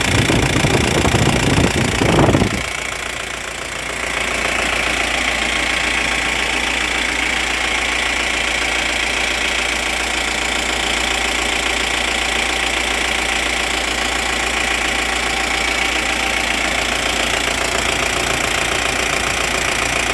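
Mahindra Bolero diesel engine idling, heard close up in the engine bay. The first couple of seconds are louder and rougher, then it settles to an even, steady running sound with a thin high whine over it.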